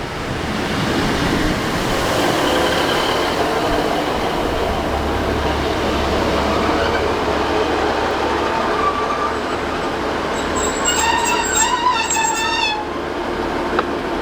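Passenger multiple-unit train running past on the line, a steady rumble of wheels and motors. About ten seconds in comes a wavering high-pitched wheel or brake squeal that lasts a couple of seconds.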